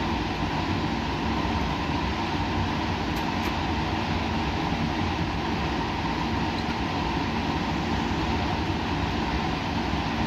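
Steady white-noise ambience: an even, unchanging rushing noise with a faint low hum underneath.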